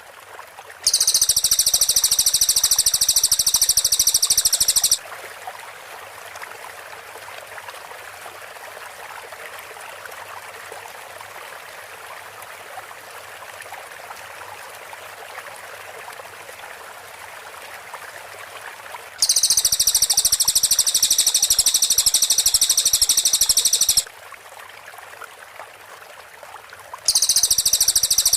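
A cililin songbird singing its rapid-fire 'tembakan rapat' song: three long bursts of very dense, high-pitched repeated notes, each about four to five seconds long. The first starts about a second in, the second about two-thirds of the way through, and the third near the end. Between the bursts there is a steady hiss like running water.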